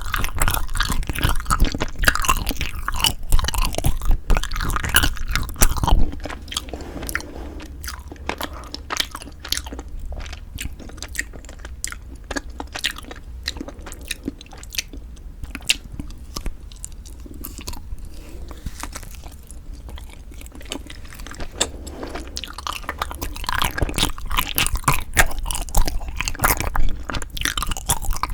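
Close-miked chewing and biting of soft, sticky food (Kiri cream cheese and rice-cake ice cream), with wet, clicky mouth sounds. It is louder for the first few seconds, softer through the middle and louder again near the end.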